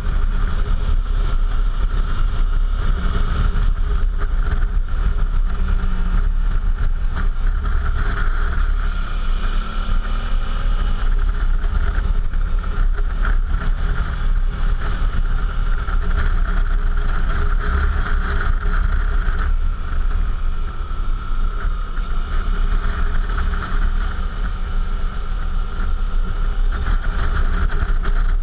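Suzuki V-Strom V-twin engine running under way, heard through a GoPro with heavy wind noise rushing over the microphone; a steady, loud rumble with small changes in engine pitch.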